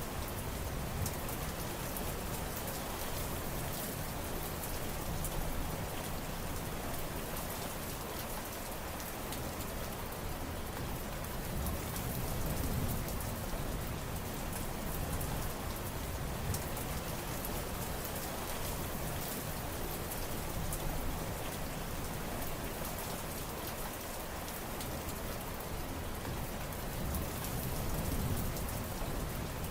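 Steady rain falling: a continuous hiss of drops, with many fine ticks of individual drops striking a surface.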